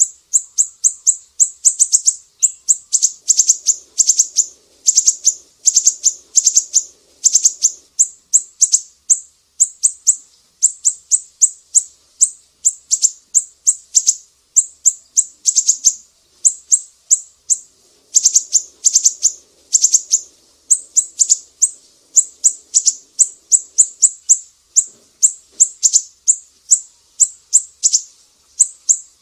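Siri-siri songbird of the Sumatran type singing rapid bursts of high, sharp chirps, a few notes at a time, with short pauses between bursts.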